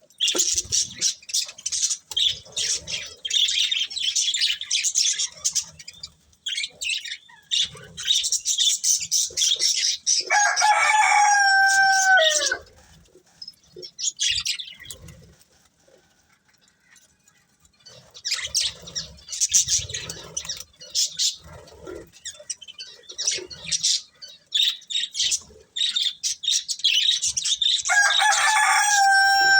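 Budgerigars chattering and chirping in rapid, high warbles, broken by a lull of a few seconds midway. A rooster crows twice over them, each crow about two seconds long and falling in pitch at its end: once about ten seconds in and again near the end.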